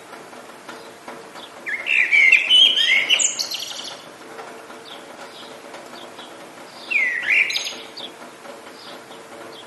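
Songbird singing in the rain: two loud, quick-changing song phrases, about two seconds in and again about seven seconds in, with faint short chirps between, over a steady hiss of rain.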